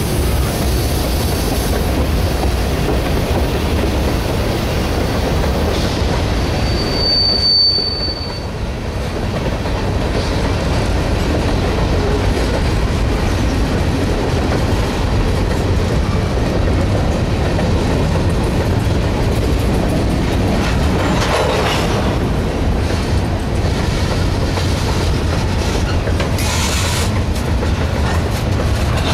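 Freight train of covered hopper cars rolling past at close range: a steady, loud rolling noise of steel wheels on rail. About seven seconds in there is a brief high-pitched wheel squeal.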